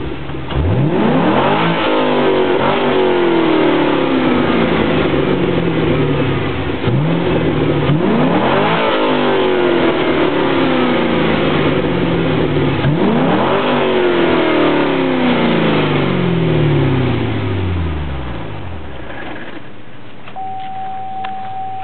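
2004 Cadillac CTS-V's 5.7-litre LS6 V8 revved three times through a B&B cat-back exhaust. Each rev climbs quickly and then drops back slowly. The engine settles to idle near the end, when a steady high tone joins in.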